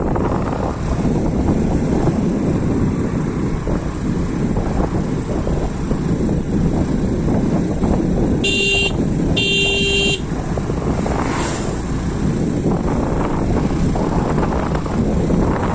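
Steady wind and road rumble of a moving scooter, with a vehicle horn honking twice a little past the middle, the second honk longer.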